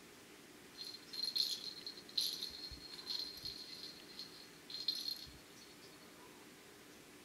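A small bell jingling in three shaken bursts, as when a cat bats a bell toy or moves in a belled collar.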